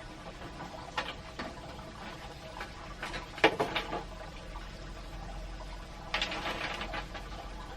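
Steady water noise with several sharp clicks and knocks of things being handled, the loudest about three and a half seconds in and a rattly cluster just after six seconds.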